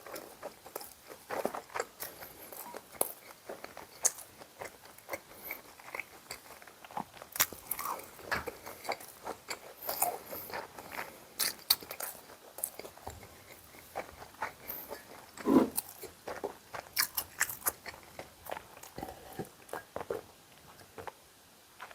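A person chewing and biting a meal of yukjeon and bibim-myeon, with many short, irregular clicks and smacks.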